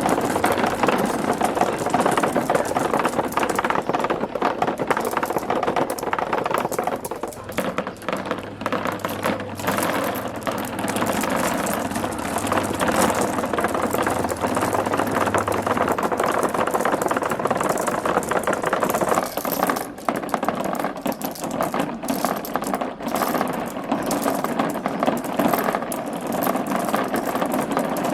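Many marbles rolling and clattering down a marble run's tracks, a dense, continuous rattle of small clicks.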